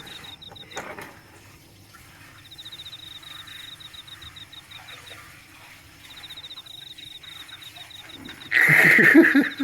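A cricket chirping in runs of quick high trills, over faint splashing and clicking of a cat pawing clams out of water. Shortly before the end comes one brief, much louder burst of sound.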